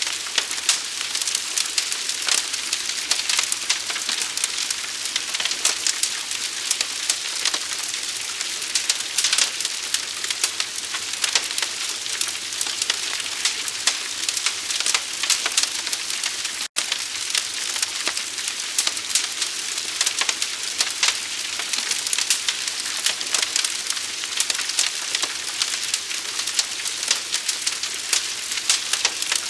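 Burning fire crackling: dense, irregular sharp pops and snaps over a steady hiss. The sound drops out for an instant about 17 seconds in.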